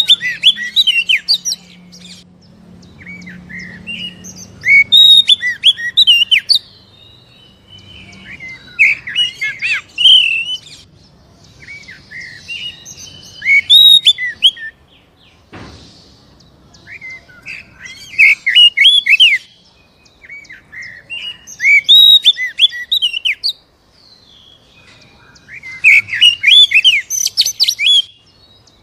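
Oriental magpie-robin (kacer) singing energetically in loud bursts of rapid, varied whistles and chattering notes, about seven phrases with short pauses between them. A single sharp click about halfway through.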